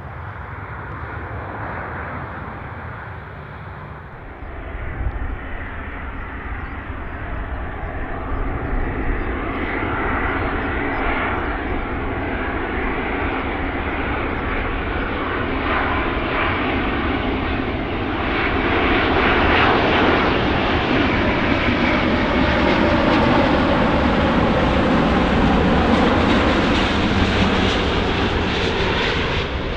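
Airbus A350 jet airliner on final approach, its twin Rolls-Royce Trent XWB engines a steady jet noise that grows louder and brighter as it nears, loudest over the last ten seconds or so.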